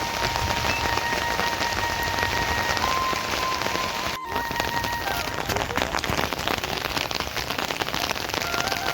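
Steady heavy rain, a dense patter of drops. Faint held musical tones sound over it in the first half, and there is a brief break a little over four seconds in.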